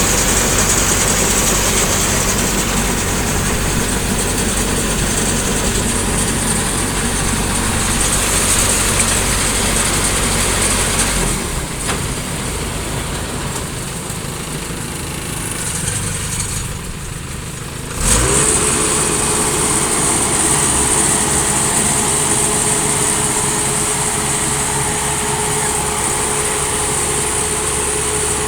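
Rice combine harvester's engine running steadily. It grows quieter for several seconds, then about eighteen seconds in comes back suddenly, with a steady whine that rises briefly as it starts.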